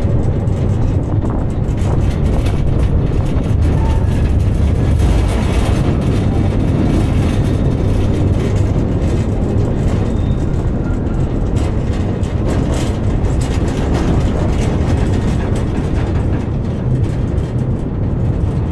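Steady low rumble of a narrow-gauge train running, heard from an open-top wagon.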